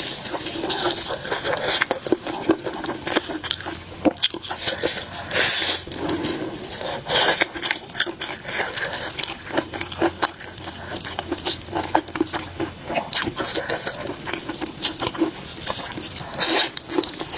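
Close-miked eating sounds: chewing with many small wet clicks and smacks of the mouth, coming irregularly.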